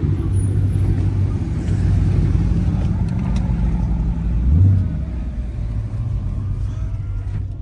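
A car engine running with a steady low rumble, with one short rev about four and a half seconds in that is the loudest moment.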